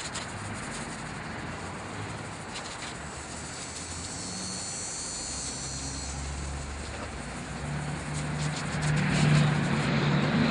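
A distant engine droning steadily, growing louder over the last couple of seconds.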